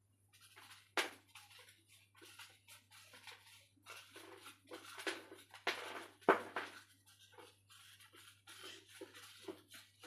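Lumps of dry red dirt being crumbled and crushed: a dense run of irregular crunches and crackles, with sharper cracks about a second in and again about six seconds in.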